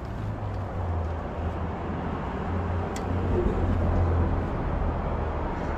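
Strong wind buffeting the microphone: a steady low rumble with a rushing haze over it.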